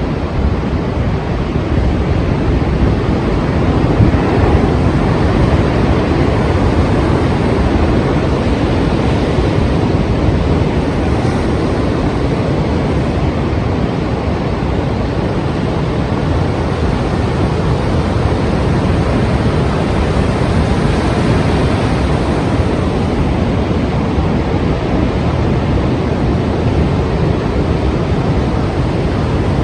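Heavy sea surf washing in continuously, a dense steady wash of water with a deep low rumble and no distinct single wave breaks.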